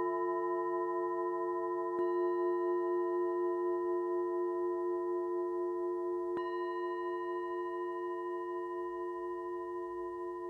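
Tibetan singing bowls ringing with long, overlapping sustained tones that waver slowly in loudness. A bowl is struck again about two seconds in and once more a little past the middle, each strike adding a fresh, higher ring over the fading hum.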